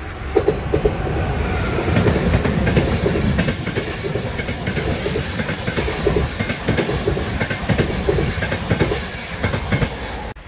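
Electric locomotive-hauled passenger train passing close by: a steady rumble of the coaches with rapid clickety-clack of wheels over the track. It fades as the last coach goes by near the end, then cuts off abruptly.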